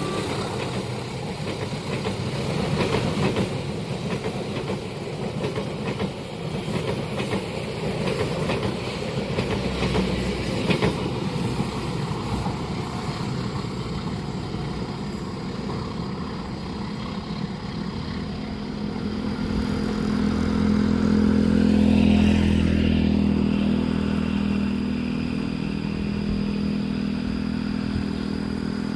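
A train running past at speed, its wheels clacking over the rail joints. About twenty seconds in, a low engine drone swells and then eases off.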